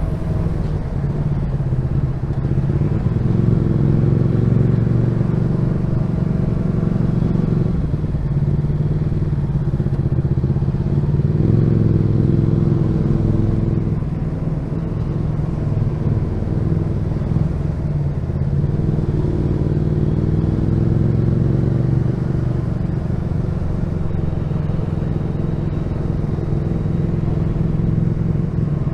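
Honda VFR1200F's V4 engine running while riding in traffic, its note rising and falling several times as the throttle is opened and closed.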